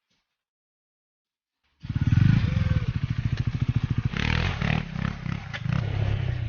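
Husqvarna Svartpilen single-cylinder motorcycle engine and exhaust running, starting suddenly about two seconds in after near silence. Its note rises and falls in pitch and loudness.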